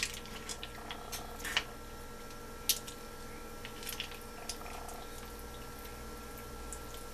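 Fork tossing shredded cheese through elbow macaroni in a baking dish, giving a few soft scrapes and light clicks against a faint steady hum.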